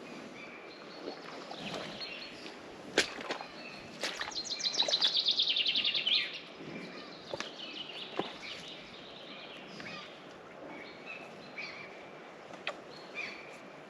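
Woodland songbirds calling and singing, with one loud fast trill of rapidly repeated high notes about four seconds in that lasts about two seconds. A few sharp snaps are heard between the calls.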